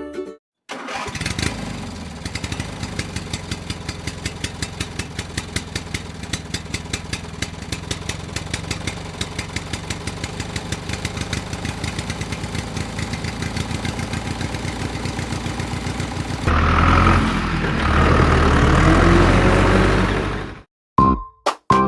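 Small engine of a homemade mini tractor running with an even pulsing beat, several beats a second. About three-quarters of the way through it runs louder and rougher for a few seconds, then cuts off abruptly.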